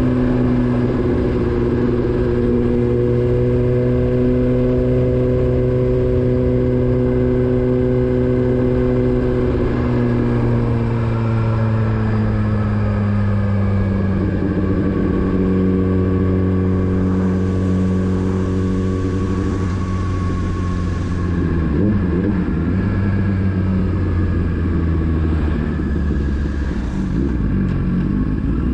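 Motorcycle engine running, its note holding steady, then falling in pitch over a few seconds about ten seconds in and holding lower, with further uneven changes in the engine note near the end.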